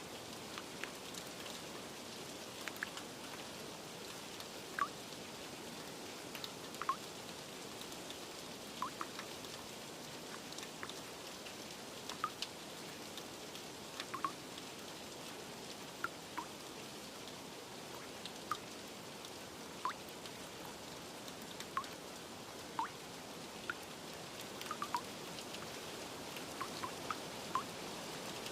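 Steady rain hiss with single drips plinking clearly over it every second or two.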